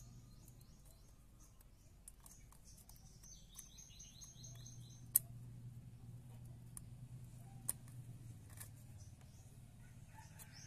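A small bird chirping in quick runs of short high notes, over a steady low hum, with two sharp clicks about five and eight seconds in.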